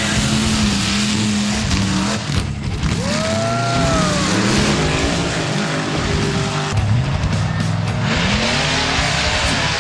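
Mud truck engine revving hard, its pitch repeatedly climbing and dropping, with a whine that rises and falls about three seconds in.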